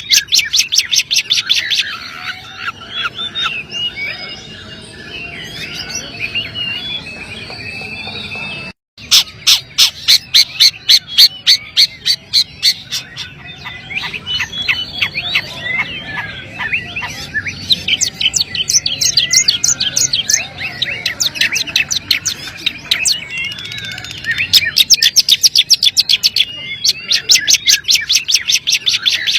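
Long-tailed shrike (cendet) singing: bursts of rapid, sharp ticking chatter alternate with varied twittering chirps. The sound drops out briefly about nine seconds in.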